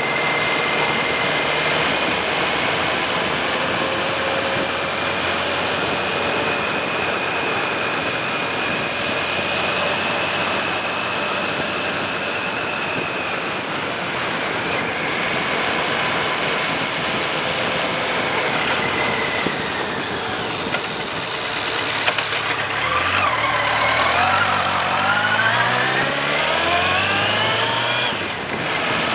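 Suzuki GSX1400's inline-four engine running under way, with heavy wind noise on the microphone. In the last several seconds the engine note rises several times in a row as the bike accelerates.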